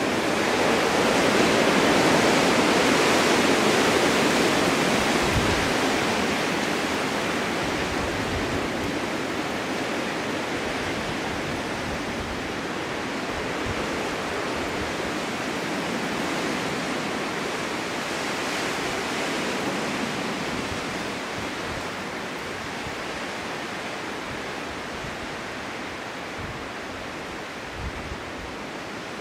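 Snowstorm wind blowing in a steady rush, a gust swelling about a second in and then slowly dying down.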